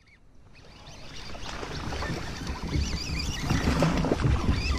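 Water sloshing and splashing around a fishing kayak, with wind rumbling on the microphone, fading up from silence. A few high warbling chirps come about halfway through.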